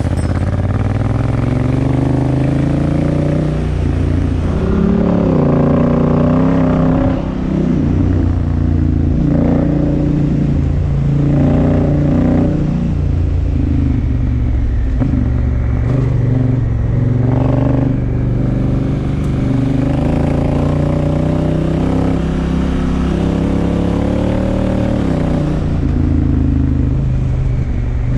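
Honda Africa Twin Adventure Sports's parallel-twin engine pulling along a gravel track, its note repeatedly rising and falling as the rider works the throttle and gears, with a brief drop off the throttle about seven seconds in.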